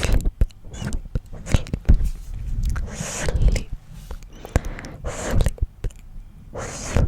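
Close-microphone ASMR whispering and mouth sounds. There are soft breathy whispers with hissing s sounds, a scattering of sharp mouth clicks, and low rumbles from hands moving near the microphone.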